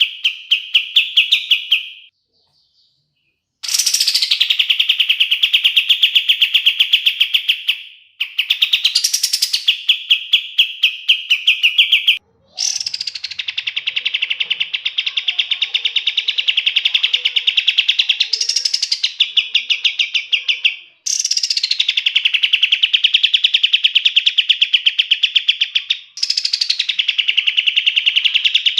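Kapas tembak songbird singing long, rapid rolling trills, each phrase opening with a quick sweeping note before the fast trill runs on for several seconds. About five phrases are separated by brief pauses, the longest pause about two seconds in.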